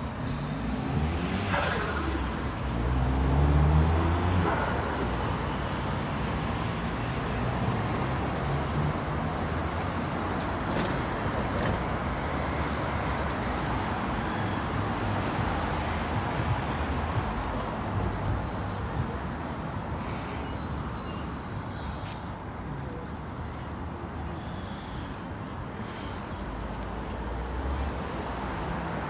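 Road traffic on a busy road, vehicles passing steadily. A heavy engine pulls away, loudest about three to four seconds in.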